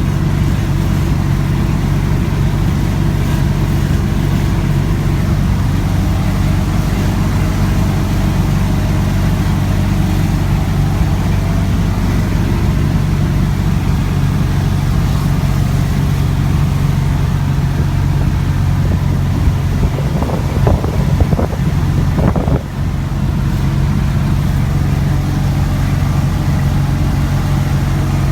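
VW Kombi van engine running steadily while driving, with a short burst of knocks and rattles about three-quarters of the way in and a brief dip in engine sound just after.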